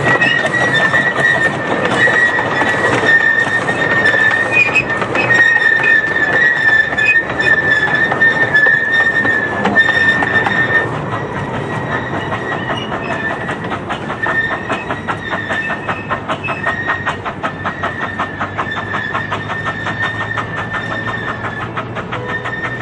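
Miniature steam train running on the 15-inch-gauge track, with a steady high squeal from the wheels and a rapid, regular clicking of wheels over the rail joints. It gets quieter about halfway through.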